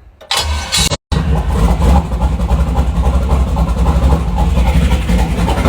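Twin-turbo 5.3 LS V8 with an aftermarket cam starting for the first time: a loud burst as it cranks and fires, a brief break about a second in, then the engine running loud and steady with a deep pulsing rumble.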